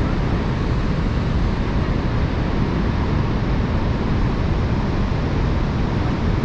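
Steady roar of Niagara Falls' rushing, falling water, an even, unbroken noise.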